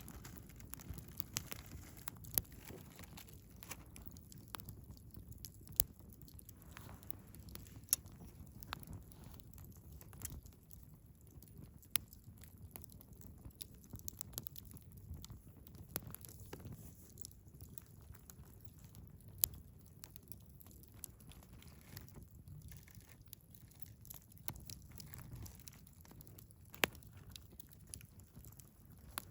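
Wood campfire burning, with scattered sharp crackles and pops every second or two over a low, steady rumble of the flames.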